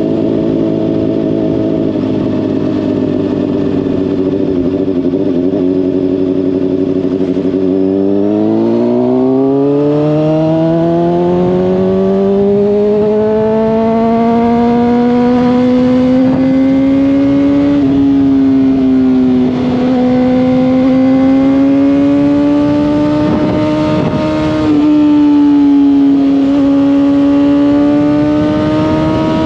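Honda CBR600RR inline-four through a slip-on exhaust, running at a steady pitch, then rising smoothly over about ten seconds as the bike accelerates. It then holds at a higher, fairly steady pitch with a few small dips and lifts as the throttle changes.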